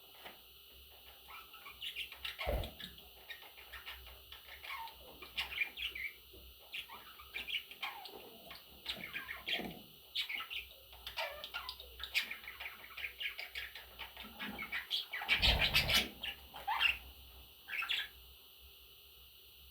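Pet budgerigars chirping and chattering in a stream of short gliding calls and squawks, with one louder, harsher burst about three-quarters of the way through.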